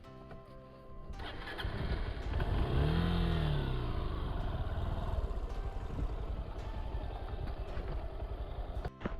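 Motorcycle engine picking up about a second in, revving up and back down once, then running steadily. Background music plays underneath.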